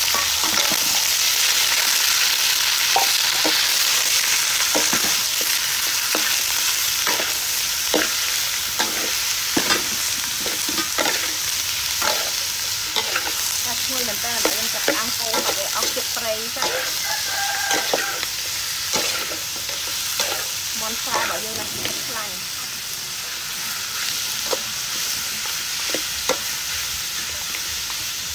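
Chopped raw chicken sizzling in a hot steel wok, stirred with a metal ladle that scrapes and knocks against the pan again and again. The sizzle is loud at first and eases a little as the frying goes on.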